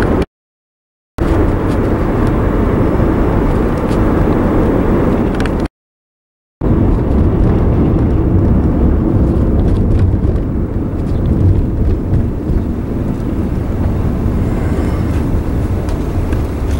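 Steady road and engine noise inside a moving car, heaviest in the low end. The sound cuts out completely twice for about a second, near the start and about six seconds in.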